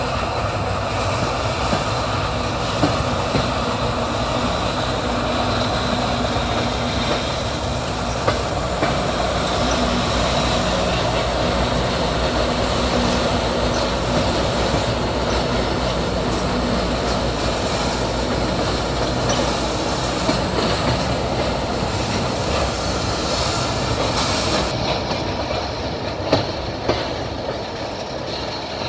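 A train running along the track with a steady rumble and rolling noise of the wheels on the rails, and a few sharp clicks of the wheels passing over rail joints.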